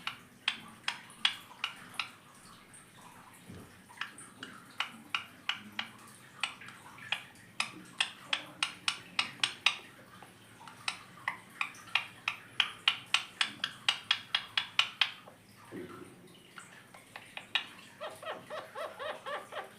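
Indian ringneck parakeet giving runs of short, sharp calls, at times about four a second. Near the end it switches to a lower, pitched chatter.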